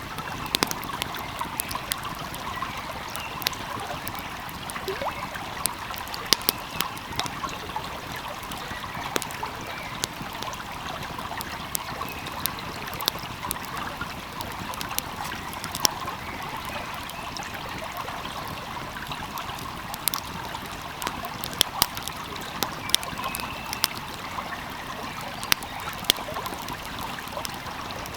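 A stream flowing steadily, with a wood fire crackling over it in irregular sharp pops.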